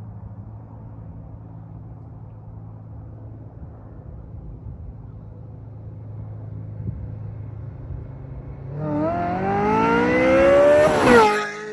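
Ferrari F355 F1's V8 through a Capristo exhaust: a low, steady engine note for about nine seconds, then hard acceleration with the pitch climbing into a loud, high-pitched scream that drops off abruptly near the end.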